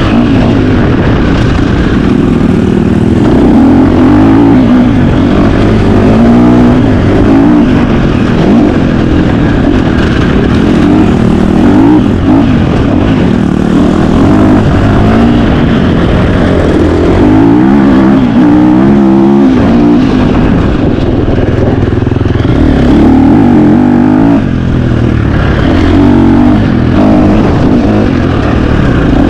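KTM 350 XC-F single-cylinder four-stroke dirt bike engine revving hard, its pitch rising and falling over and over as the throttle is worked.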